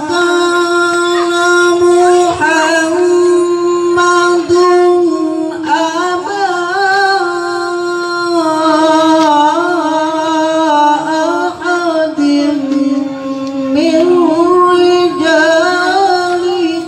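A qori's voice in melodic Quran recitation (tilawah), holding one long, high note ornamented with wavering melismatic turns. The pitch dips slightly, then rises again, late on.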